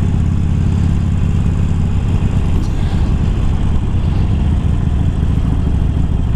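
Harley-Davidson Sportster Iron's air-cooled V-twin, fitted with a 1200 upgrade kit and Screamin' Eagle slip-on exhausts, running steadily at cruising speed while the bike is ridden.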